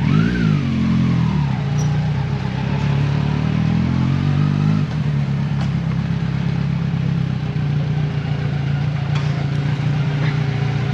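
Kawasaki Versys 1000 motorcycle's inline-four engine running, with a quick rev up and down at the start and a slower rise and fall in engine speed around four seconds in, then holding a steady note.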